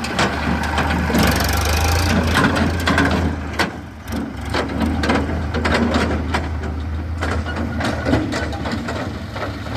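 A heavy engine running steadily with a low hum, under repeated sharp knocks and metallic clatter.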